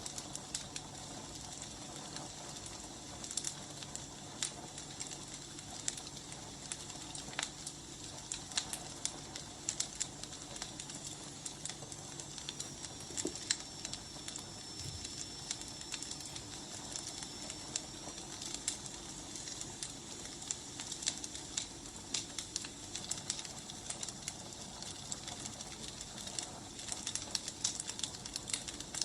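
Firewood burning: a steady hiss with frequent sharp crackles and pops, and a faint high whistle for a few seconds midway.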